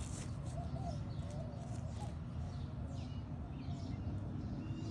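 Birds chirping outdoors, with a few short, sharp calls in the second half, over a steady low background rumble.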